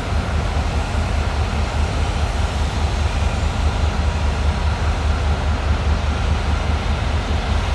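Steady low rumble under an even hiss, typical of diesel locomotives idling in a rail yard.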